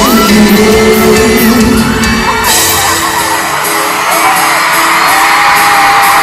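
Live pop band playing in a large arena with the audience screaming and cheering over it. The bass drops out about two and a half seconds in, leaving held sung notes under the crowd's rising screams.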